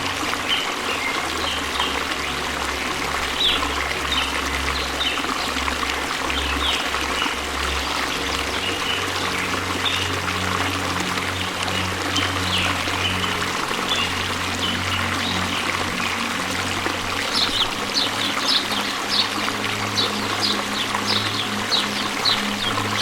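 Waterfall rushing in a steady, dense stream of falling water. Low sustained tones hum underneath, and short high chirps come through, growing more frequent after about 17 seconds.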